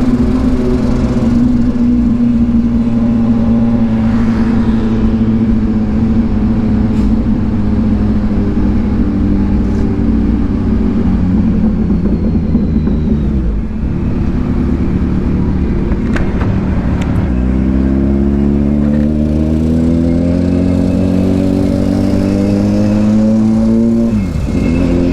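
2022 Kawasaki Ninja 1000SX's inline-four with an aftermarket AR exhaust, riding at speed: the engine holds a steady note, drops off about halfway through, then pulls up steadily in pitch under acceleration, with a brief dip for an upshift near the end before rising again.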